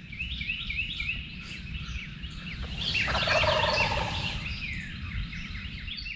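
A wild turkey gobbling: one rapid rattling call about three seconds in, the loudest sound here, over many small songbirds chirping throughout.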